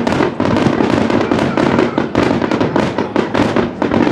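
Fireworks display at close range: a dense barrage of shell launches and bursts, several sharp bangs a second with no let-up.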